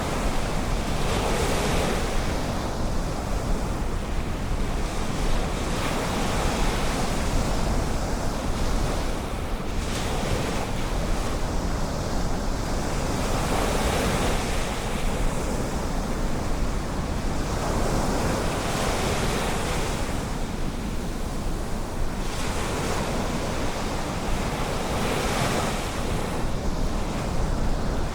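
Ocean surf breaking and washing in, a steady rush that swells every few seconds, with a low wind rumble on the microphone.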